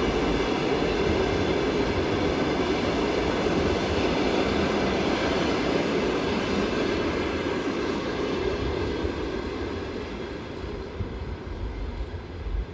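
Passenger coaches of a passing train rolling by at close range: a steady noise of wheels on rails that fades over the last few seconds as the tail of the train moves away.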